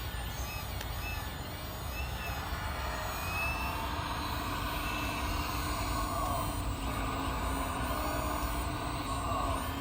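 1/14-scale RC hydraulic excavator running, its hydraulic pump and motor giving a steady mechanical whine that shifts in pitch as the machine works, growing a little louder after a few seconds.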